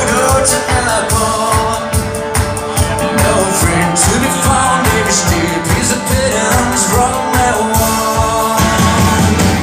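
A rock band playing live, with singing over a steady drum beat. Near the end the band holds a long chord.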